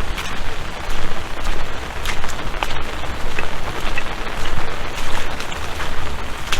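Steady rain: a continuous hiss with scattered drops striking close by, over a low, unsteady rumble.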